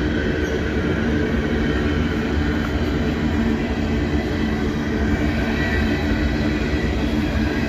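Freight train cars rolling past close by: a steady rumble of steel wheels on rail, with a faint high wheel squeal held above it.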